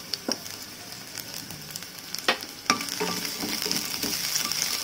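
Sliced garlic sizzling in hot oil in a metal kadai, stirred with a wooden spatula that knocks against the pan a few times.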